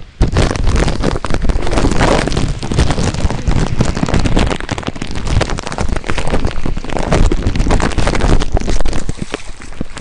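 Heavy rain pattering and crackling close to the microphone, with wind buffeting the microphone; it starts abruptly at the beginning.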